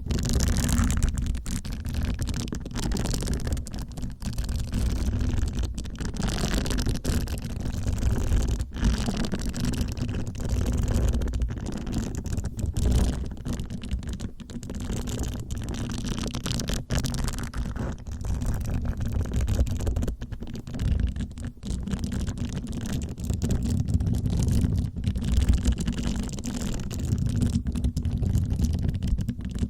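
Soft bristles of a facial cleansing brush brushed and rubbed close against the microphone: a continuous deep, rumbling rustle with a few brief breaks.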